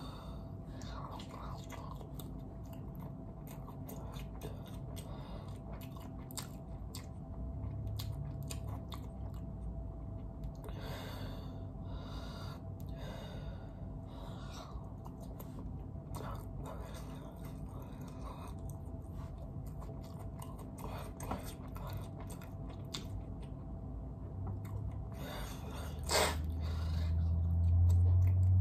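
Close-up chewing and mouth clicks as fried chicken is torn apart and eaten. A sharper, louder bump about 26 seconds in, followed by a low rumble near the end.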